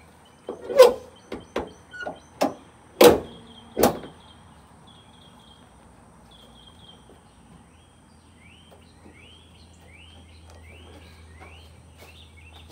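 Several sharp bangs and knocks on a 1998 Ford Ranger pickup's body panels over the first four seconds, the loudest about one second and three seconds in, as the hood is pushed and slammed shut. After that a bird chirps repeatedly with short rising calls.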